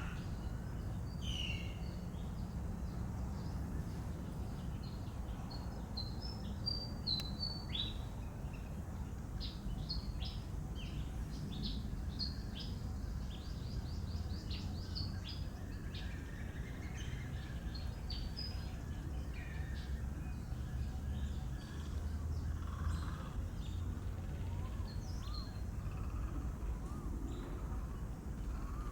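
Birds chirping: a dense run of short, high chirps throughout, over a steady low background rumble.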